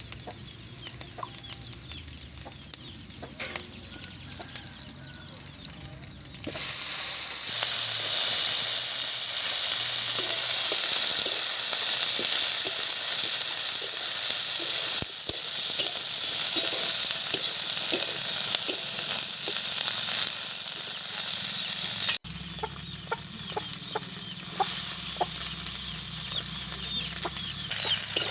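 Food frying in hot oil in a pan, sizzling steadily while being stirred, with scraping strokes throughout. The sizzle turns much louder about six seconds in and falls back somewhat near the end.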